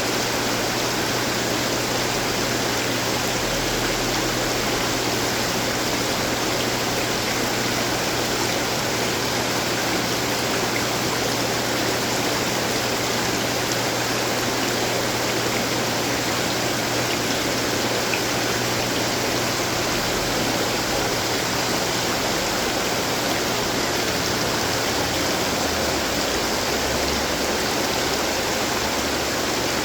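Decorative water fountains running: a steady rush of falling, splashing water.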